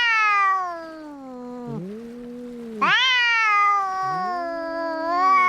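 Two cats yowling at each other in a fight. One gives long, high wailing yowls, one at the start and another from about three seconds in, while a second cat answers with lower, drawn-out moaning yowls that rise and fall underneath.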